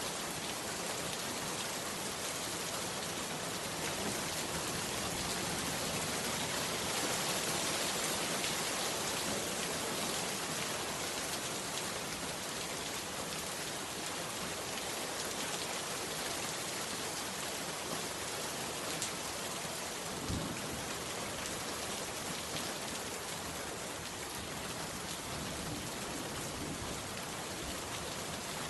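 Heavy rain pouring steadily, with a couple of brief clicks from single drops about two-thirds of the way through.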